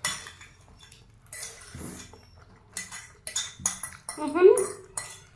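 Metal cutlery clinking and scraping against a plate or bowl while instant noodles are eaten, in a string of sharp clinks. A short vocal sound cuts in about four seconds in.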